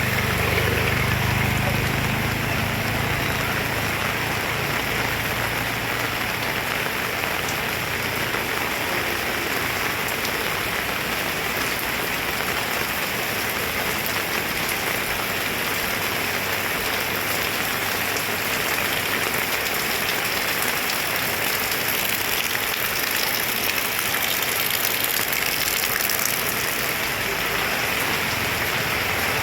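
Heavy rain pouring steadily, a dense even hiss of drops hitting the ground and surfaces. A low rumble fades out in the first few seconds.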